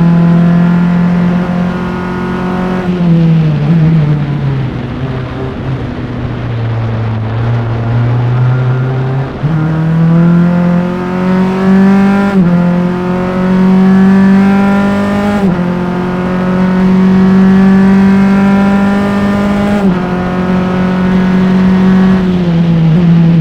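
Single-seater formula race car's engine heard onboard at racing speed: running high, lifting and dropping in pitch through braking and downshifts from about 3 s, then pulling hard out of a slow corner from about 9 s with two quick upshifts, holding near the top, and easing off again near the end.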